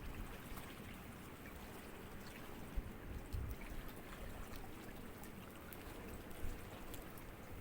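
Faint small sea ripples lapping and trickling at the water's edge, an even wash of water with scattered small drips and ticks.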